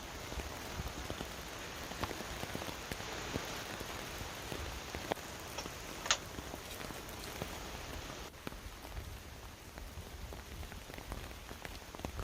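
Heavy monsoon rain falling steadily, with scattered sharper drops ticking close by and one louder drop hit about six seconds in; the rain eases slightly after about eight seconds.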